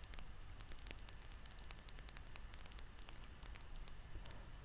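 Faint background noise: a low steady hum with scattered small clicks, and no clear source.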